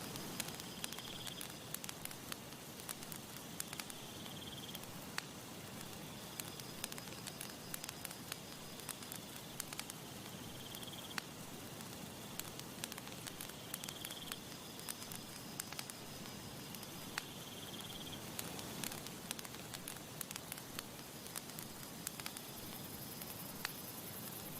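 Campfire crackling, with irregular sharp pops and snaps over a soft steady hiss of burning wood. A faint high trill comes and goes every few seconds.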